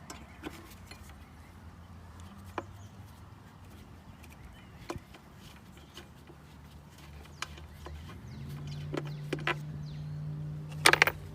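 Scattered clicks and clanks of hand tools on the ATV, over a steady low hum that rises a little in pitch about eight seconds in. A burst of loud clattering comes near the end.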